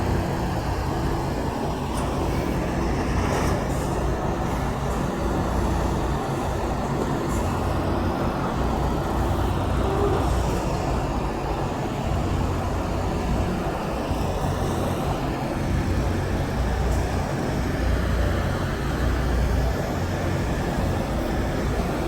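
Heavy diesel engine of a semi truck running steadily, with road traffic noise around it.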